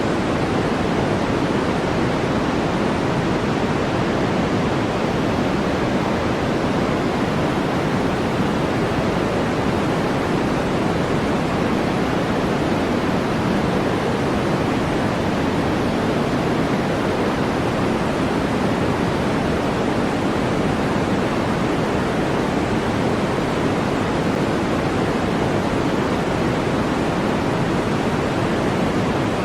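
Steady synthetic white noise: an even, unchanging hiss, fuller in the low-middle than in the treble, much like pink noise.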